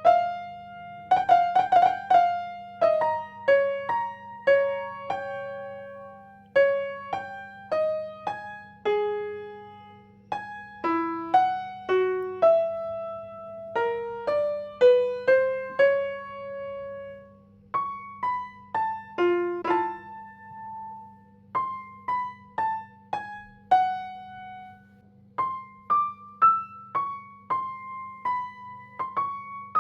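Background music: a slow piano melody of single struck notes, each ringing and fading, over a steady low hum.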